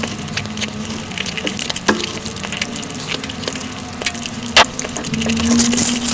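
Mukbang eating sounds of puri and curry sped up five times: a fast, dense stream of wet chewing and smacking clicks, with one sharper click about halfway through.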